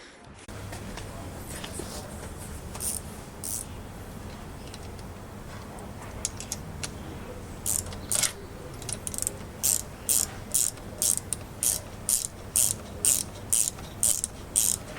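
Repeated short mechanical clicking strokes, about two a second, from hand-tool work on the moped, over a steady low hum. The strokes start irregularly and settle into a regular rhythm about halfway through.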